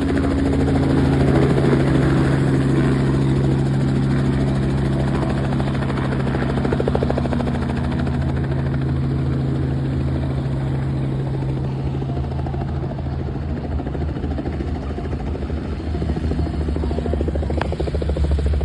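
Helicopter running, with a steady engine and rotor hum that holds a low pitch. A deeper drone grows louder in the last few seconds.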